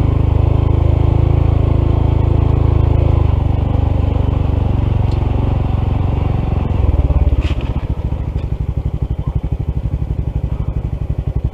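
Honda CT125 single-cylinder motorcycle engine running steadily at low speed. About seven seconds in it swells briefly, then drops to a slow idle with separate, evenly spaced firing pulses.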